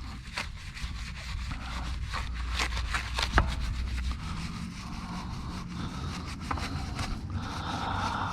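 Bristle wheel brush scrubbing a wet car wheel, with quick, irregular back-and-forth scraping strokes.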